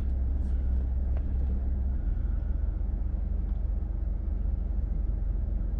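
2016 Ford F-150's 2.7 L twin-turbo EcoBoost V6 idling steadily while still cold, a low even hum that shifts slightly about two seconds in.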